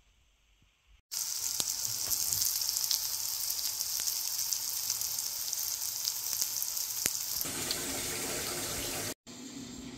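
Onions and spices sizzling as they fry in a pan, starting about a second in, with a few sharp clicks. Later the sizzle changes to eggs frying in a frying pan.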